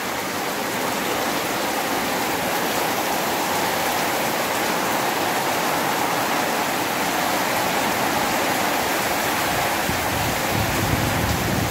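Heavy rain falling steadily, an even hiss of rain on surfaces, with a low rumble joining in near the end.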